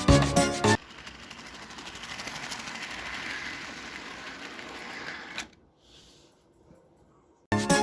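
Small electric motor of a model locomotive running on track, a steady whir that rises a little and then cuts off suddenly. A brief snatch of music comes before it and near silence after.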